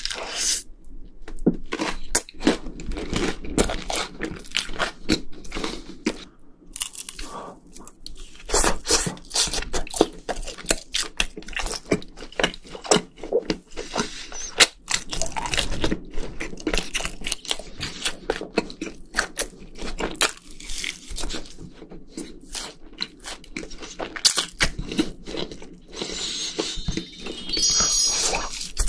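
Close-miked crunching and chewing of crispy fried food, a sausage and then breaded cheese sticks, as irregular bites and crunches one after another.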